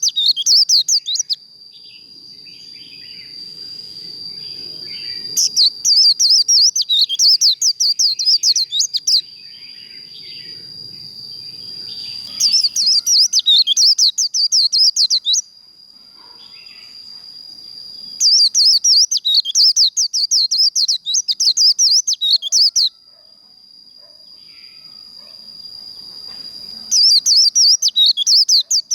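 White-eye (vành khuyên) singing its rapid, jumbled 'líu' competition song in repeated bursts of fast high chattering, each a few seconds long with pauses between, five bursts in all. A steady thin high tone continues underneath throughout.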